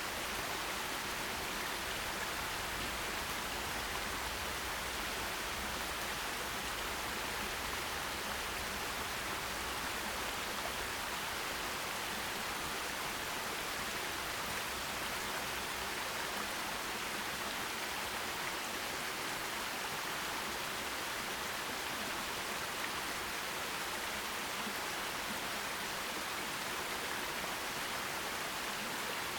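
Forest stream water running over rocks, a steady, even rush with no pauses.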